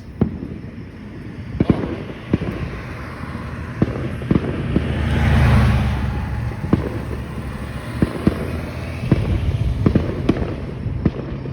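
Fireworks going off: about a dozen scattered sharp pops and bangs at irregular intervals, with a rushing swell of noise and low rumble that rises and falls about five to six seconds in.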